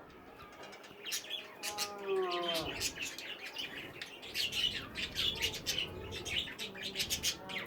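A flock of budgerigars chirping and chattering in an aviary, with many rapid, high chirps. About two seconds in there is one lower call that falls in pitch.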